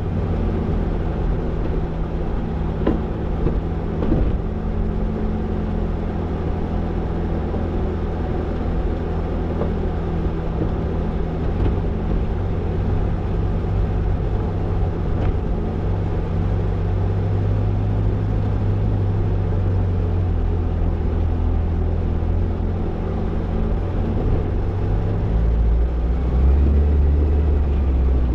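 Toyota Tercel 4WD wagon's engine running steadily while the car is driven along a trail, a low hum whose pitch shifts with the driving, with a couple of light knocks a few seconds in. Near the end the engine note drops lower and gets louder.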